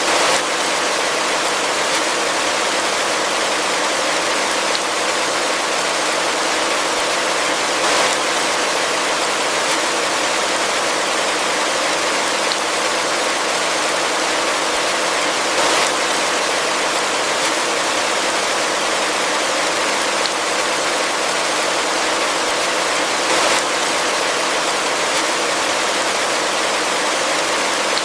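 Heavy rain falling in a steady, even hiss, with a brief slightly louder swell about every eight seconds.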